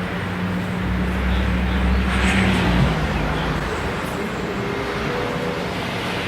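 Street traffic: a motor vehicle's engine rumbles past, swelling from about a second in and loudest around two and a half seconds, then fading into the steady background noise of the road.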